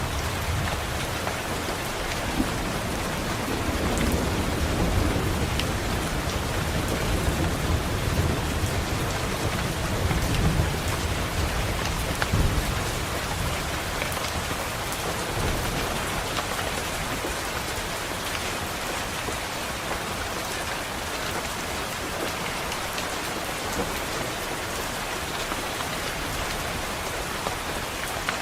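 Steady rain pattering on a window, with a low rumble of rolling thunder building a couple of seconds in and fading out about halfway through.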